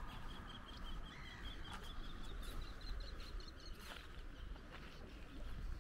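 A bird calling a long run of short, evenly spaced high notes, about six a second, rising slightly in pitch before stopping about four seconds in, over a low rumble of wind on the microphone.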